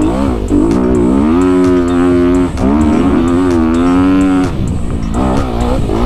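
Dirt bike engine being ridden hard, its revs rising and falling with the throttle, with brief dips where the rider backs off or shifts.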